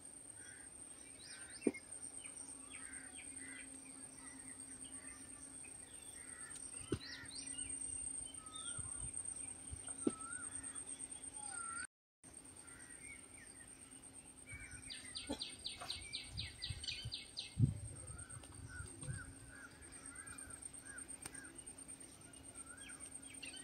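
Small birds chirping and calling over a steady high-pitched whine, with a quick run of about ten even notes a little past halfway and a few sharp knocks.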